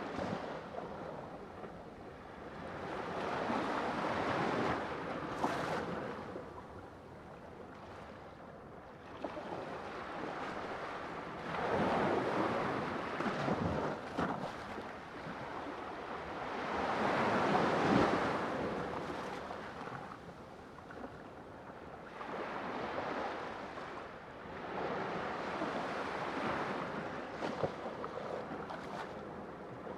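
Sea waves washing ashore, each surge swelling and falling away every few seconds, the strongest about 12 and 18 seconds in.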